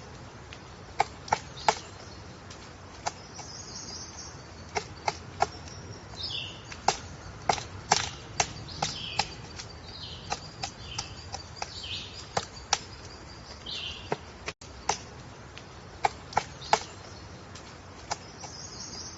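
A woodpecker pecking at wood: sharp, irregular single knocks, a second or less apart, some much louder than others, not a fast drumming roll. Short high bird calls sound between the knocks.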